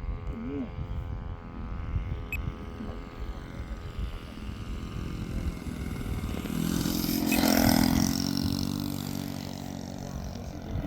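Fuel-burning engine of an RC model Cessna 182 droning in flight. It grows louder to a close pass about seven seconds in, then fades as the plane moves away.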